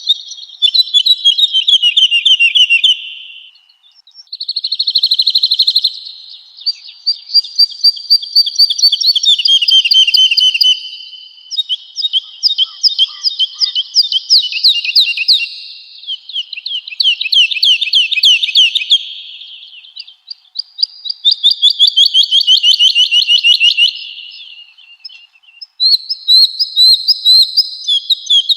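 Woodlark singing: a string of fast trilled phrases a few seconds long, many sliding down in pitch, with short pauses between them.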